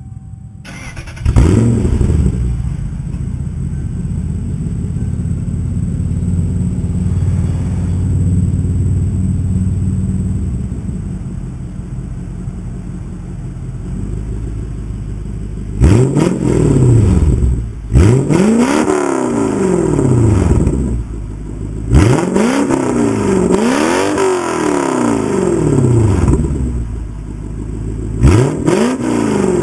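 1996 Lexus SC400's V8 through a freshly fitted 2.5-inch cat-back exhaust with an X-pipe and Tanabe Medallion Touring mufflers. It starts up about a second in and idles steadily, then is revved in a series of quick throttle blips in the second half, each rising and falling back to idle.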